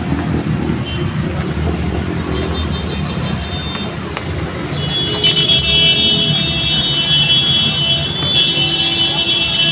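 Jammed road traffic on a flooded street, with a steady engine rumble. About halfway through, a high, steady tone comes in and holds for several seconds.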